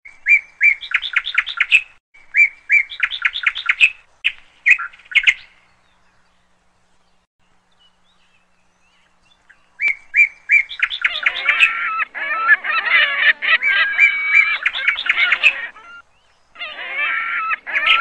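Birds calling: quick runs of repeated chirping notes in short bursts, a pause of about four seconds, then many calls overlapping from about ten seconds in.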